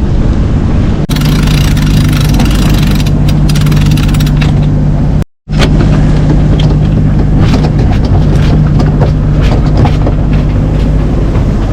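Sailing yacht's engine running at a steady drone while motoring under sail, cutting out briefly about five seconds in.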